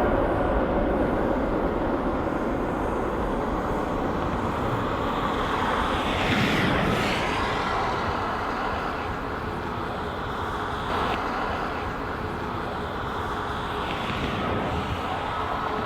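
Boeing 777-300ER's GE90-115B jet engines running at takeoff power: a dense, steady jet noise, with a brief sweep in pitch about six seconds in as the aircraft passes, then slowly easing off.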